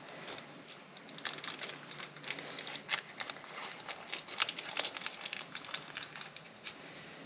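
Acrylic click pen kit parts handled and screwed together by hand: small irregular clicks and taps.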